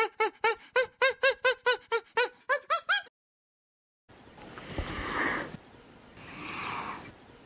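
A monkey's rapid run of short calls, each rising and falling in pitch, about four a second for some three seconds. After a pause comes a giraffe's two long, noisy snorts.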